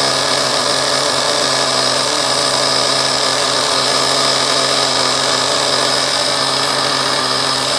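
O.S. Max 30VG nitro glow engine in a Losi 8ight 2.0 buggy running steadily at idle, sitting and running through its first tank of break-in fuel.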